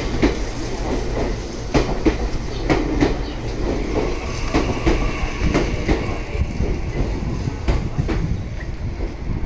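Meitetsu electric commuter train running along the platform: a steady low rumble with its wheels clacking over the rail joints in quick pairs.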